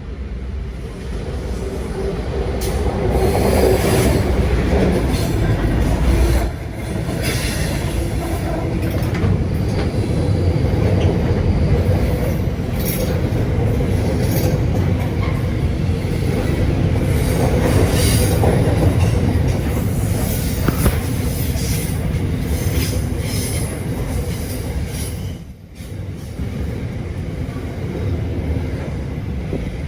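Passenger train running along the track: a continuous rumble of wheels on rails, with scattered clicks over rail joints and a brief drop in loudness about 25 seconds in.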